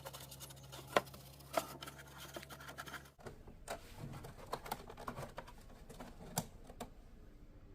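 Scattered small clicks and light scratching from hands handling and working on a cassette player's parts, with a steady low hum that cuts off abruptly about three seconds in.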